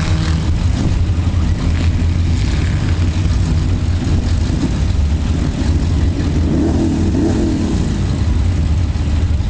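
Tough-truck racing truck's engine running hard and revving under load, a loud low drone whose pitch rises and falls a couple of times about two-thirds of the way through.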